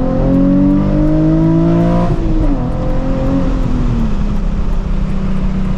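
2007 Nissan 350Z HR's V6 engine pulling hard under acceleration, heard from inside the cabin. Its pitch climbs steadily for about two seconds, then breaks and falls away and settles into a steady cruise note.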